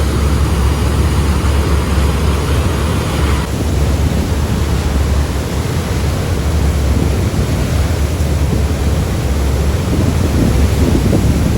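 Wind rushing over the microphone on the open deck of a ferry under way, over a steady low rumble from the vessel. The hiss shifts abruptly about three and a half seconds in.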